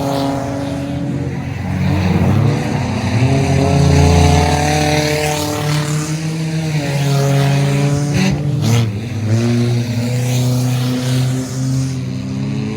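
Several race car engines running around the track together, their pitches rising and falling as they accelerate and lift off. A short sharp crack about two-thirds of the way through.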